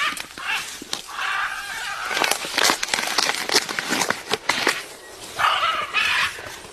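A parrot's harsh, noisy calls, one about a second in and another near the end, with a run of sharp clicks and taps in between.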